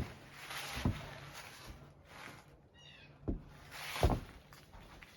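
Footsteps crunching and thumping in snow, four heavy steps with rustling between them, and a short series of high chirps a little before the middle.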